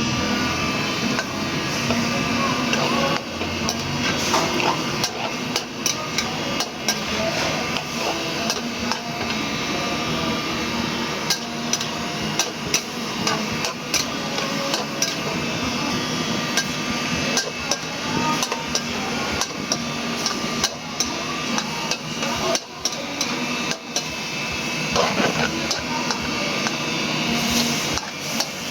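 Repeated sharp knocks of kitchen utensils at an uneven pace, about one or two a second, over a steady background noise.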